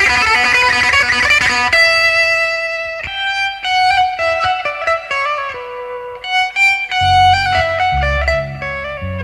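Music: an electric guitar solo, a fast dense run that gives way about two seconds in to separate, ringing single notes, with low notes coming in near the end.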